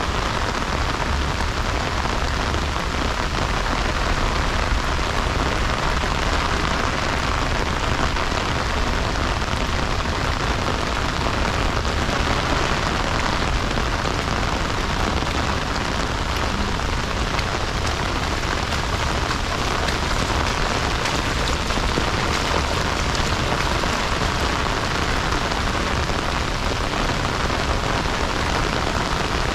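Heavy rain falling steadily: an even hiss with a low rumble underneath, unchanging throughout.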